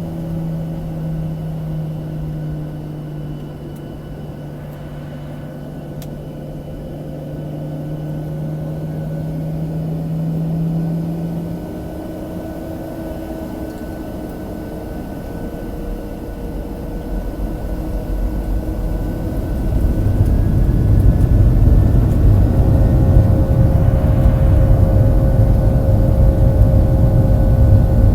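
Boeing 737-700 cabin sound: the CFM56-7B jet engines run at low power with a steady hum. About two-thirds of the way in they spool up, and the sound swells into a much louder, steady low rumble, as for the takeoff roll.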